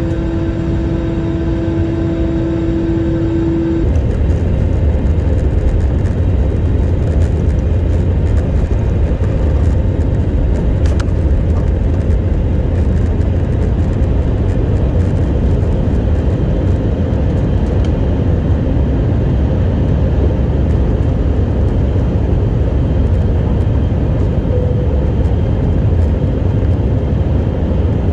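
Steady, loud vehicle noise heard from inside, with a deep low rumble that grows stronger about four seconds in and then holds steady.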